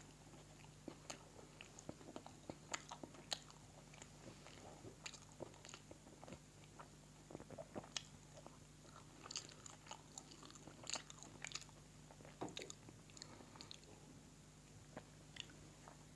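Close-up chewing of pizza: quiet, irregular wet mouth clicks and smacks.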